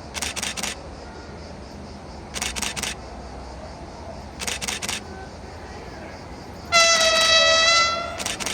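Train wheels clacking over rail joints in quick groups of three or four clicks, about every two seconds, over a low running rumble. Near the end a train horn sounds one loud, steady blast lasting about a second and a half.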